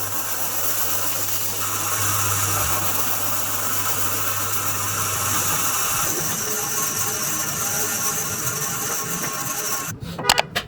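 Steady mechanical running noise, like a motor or engine, with a low hum that fades out about two-thirds of the way through; it cuts off suddenly near the end.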